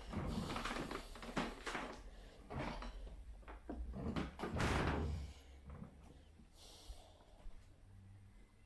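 Irregular knocks, bumps and scraping, busiest in the first five seconds and then fading to a few faint sounds.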